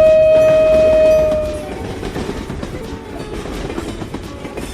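Train horn sounding one long steady note that fades out about a second and a half in, over the steady rumbling noise of a train running on the track.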